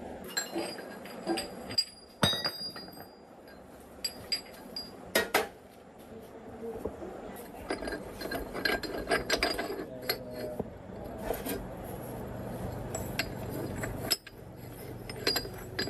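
Loose steel parts clinking and knocking together as a tractor gearbox is worked on by hand: many irregular sharp taps, a few of them ringing briefly.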